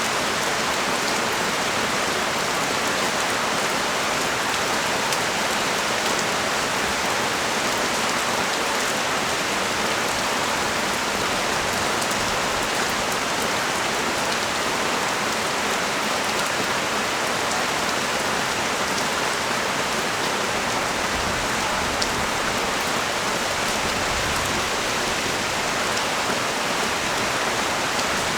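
Steady rain falling, an even hiss with the fine patter of individual drops.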